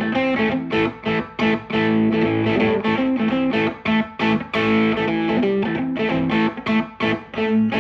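Fender Stratocaster on its bridge pickup, played through a Maxon Vintage Overdrive Pro pedal: a riff of picked chords and single notes with mild overdrive.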